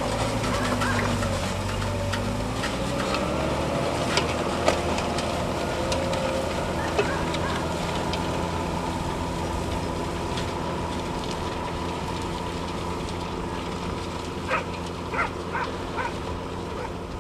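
Fendt 818 tractor engine running steadily under load while ploughing, its pitch rising over the first few seconds and then holding. A few sharp knocks sound over it, several of them close together near the end.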